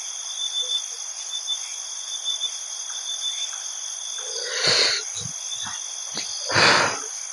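Steady high-pitched chorus of crickets and other night insects. About four and a half and again six and a half seconds in come two short, louder noisy whooshes, with a few sharp clicks between them.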